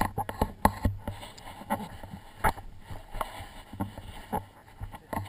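Irregular thuds and knocks, several a second, over a low rumble: footsteps and the jostling of a body-worn camera as its wearer moves.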